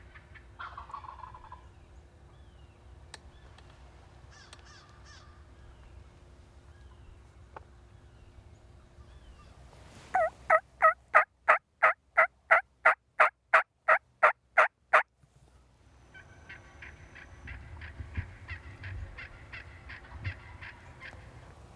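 Osceola wild turkey hen yelping: a loud run of about thirteen evenly spaced yelps lasting some five seconds, with fainter turkey calling before and after it.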